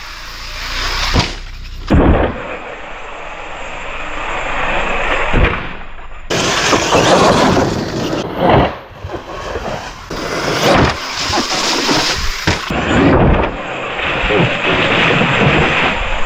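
ARRMA Outcast 8S electric RC car being driven hard: loud, rough tyre and ground noise with a few sharp knocks, broken into several short clips by abrupt cuts.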